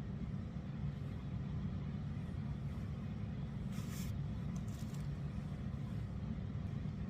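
A steady low mechanical hum, with a brief hiss about four seconds in.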